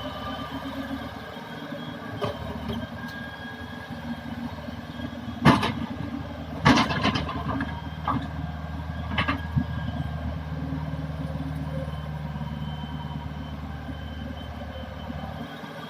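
Hitachi hydraulic excavator's diesel engine running steadily, with a few sharp clanks from about five to ten seconds in, the two loudest close together around the middle.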